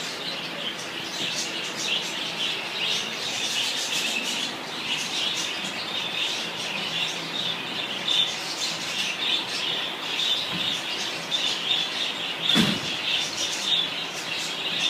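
A flock of birds chattering and chirping without pause, many calls overlapping. A brief thump sounds late on.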